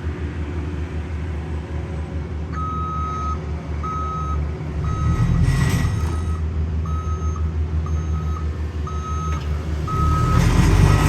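A heavy road-paving machine's reversing alarm beeping about every 0.7 seconds, starting about two and a half seconds in, over the steady low rumble of its engine. Short hisses come twice, the second louder near the end.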